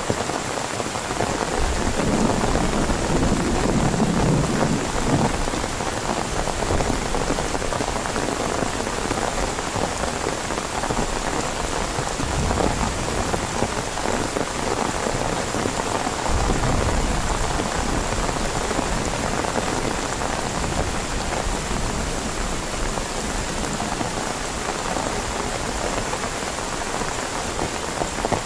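Heavy rain falling steadily, a dense even hiss, with a low rumbling swell a few seconds in and another a little past the middle.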